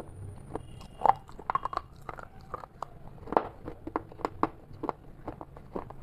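Close-up chewing of a crunchy snack: irregular crisp crunches, several a second, with the loudest about one second in and again past the middle.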